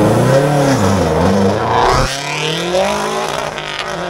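Sports car engine revving close by, its pitch rising and falling, loudest in the first two seconds before climbing once more and settling to a steadier note.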